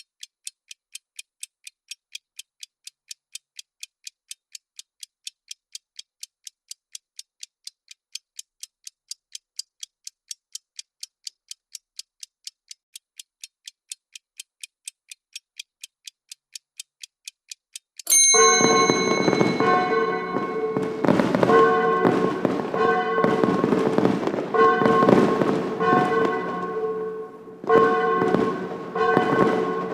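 Countdown timer's clock-ticking sound effect, even high-pitched ticks, until about 18 seconds in, when the time runs out: a ringing end-alert tone sounds and a fireworks sound effect of crackles and bangs starts over festive music with a repeating melody.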